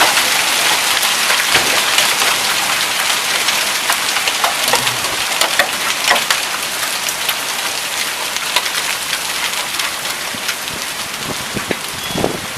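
Heavy rain and penny-sized hail coming down hard, a dense hiss peppered with many sharp ticks of stones striking surfaces, easing slightly near the end.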